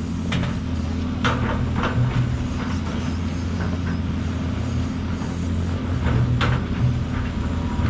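Large excavator's diesel engine running steadily at work, with intermittent knocks and clanks from the working machine.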